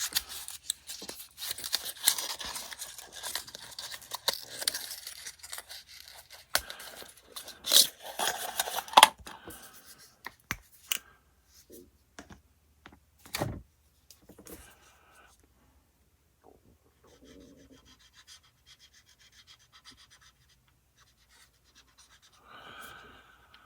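Handling noise from an acrylic paint marker being tried on model plastic: dry scratching and scraping with scattered clicks through the first ten seconds or so, then only a few faint clicks and rustles.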